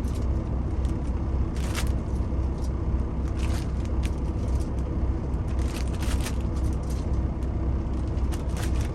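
Semi-truck engine running with a steady low rumble heard inside the cab. Over it come several short crinkles as raw chicken is handled in a plastic bag.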